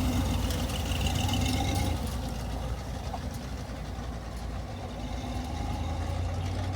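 A car engine running steadily at low revs with a low hum. It eases off about two seconds in and picks up again near the end.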